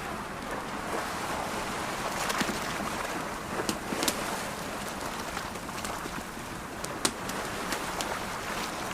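Campfire crackling, with a few sharp pops, over the steady wash of ocean waves.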